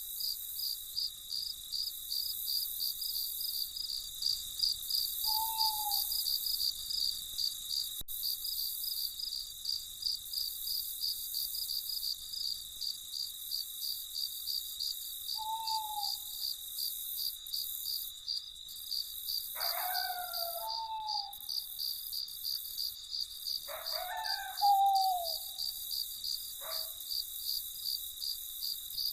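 Crickets chirping in a steady, rapid pulse without a break. Over it, a bird gives short falling calls: two single calls in the first half, then several louder, fuller calls in the second half.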